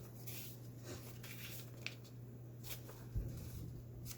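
Paper pages of a thick handmade junk journal being turned and handled: short rustles, with a dull thump a little after three seconds in.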